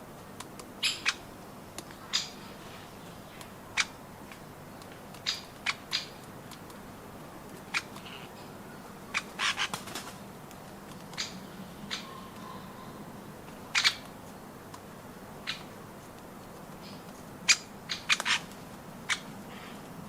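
Short, sharp bird calls from birds at a garden nut feeder, about twenty single or paired notes coming at irregular intervals over a quiet steady background.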